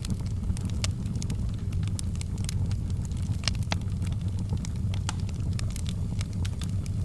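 Wood fire burning: a steady low rumble with frequent, irregular sharp crackles and pops of the burning wood.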